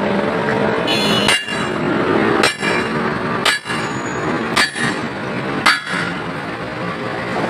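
Hammer blows on the metal of a truck wheel during a tyre change: five strikes, about one a second, the first with a metallic ring.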